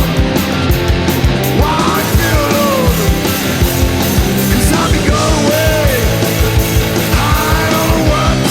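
Punk rock band playing, a driving drum beat under a loud, dense band sound with a melody line gliding up and down in pitch.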